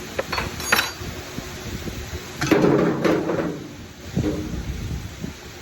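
A few light clicks and knocks, then a louder scraping rattle of metal parts about two and a half seconds in that lasts about a second, followed by a few smaller knocks: tools and engine parts being handled.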